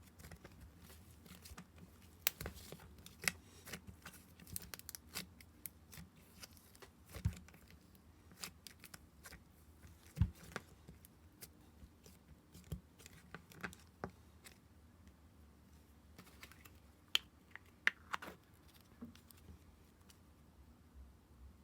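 Slime being handled by hand: irregular small clicks, taps and crackles, a few sharper ones around 10 and 18 seconds in, over a low steady hum.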